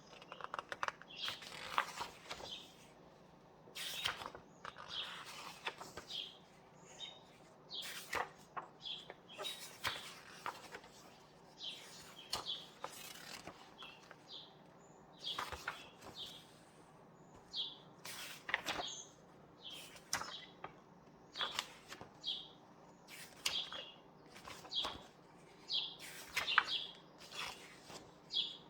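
Pages of a book being turned and handled: paper rustles and flips every second or two. Small birds chirp between and over the page turns.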